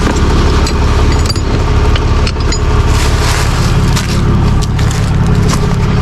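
Tow truck engine running steadily to drive the winch, with scattered clicks and knocks over it.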